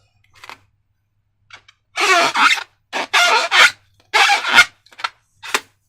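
Slime and slime-filled rubber balloons being handled: three loud bursts of squishing and rubbing, each about half a second long, with a few short clicks around them.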